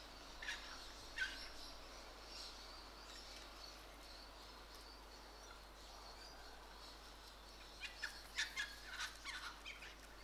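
Faint outdoor birdsong: short bird calls and chirps, a few in the first couple of seconds and a quick cluster of several near the end, over a faint steady background.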